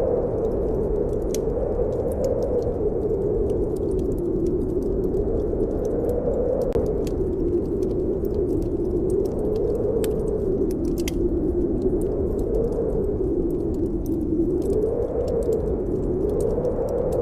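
Snowstorm wind howling steadily, its pitch slowly rising and falling every few seconds, with a wood fire crackling in sharp scattered pops over it.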